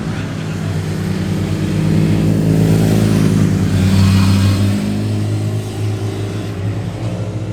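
Motorcycle engine running hard as the bike rides past, growing louder to a peak about halfway through, with its pitch dropping a little soon after.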